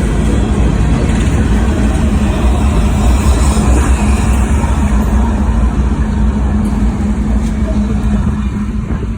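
CSX freight train rolling past, a loud steady rumble with a constant low hum.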